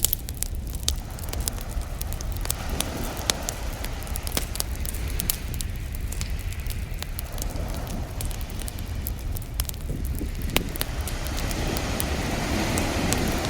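Wood campfire crackling with frequent sharp pops, over ocean waves washing in slow swells, the biggest wave building near the end.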